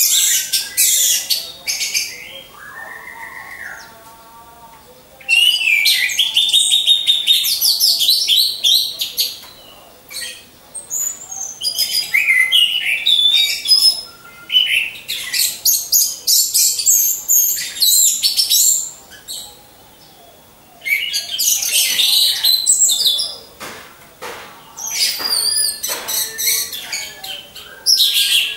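Orange-headed thrush song: long phrases of rapid, high-pitched, varied warbling, several seconds each, broken by short pauses.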